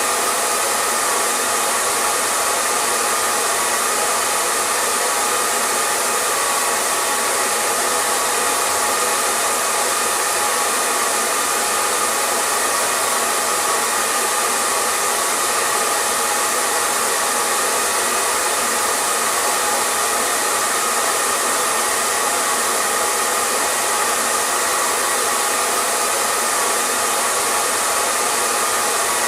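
Electric hair dryer running steadily: an even airy rush of blown air with a faint motor whine, unchanging throughout.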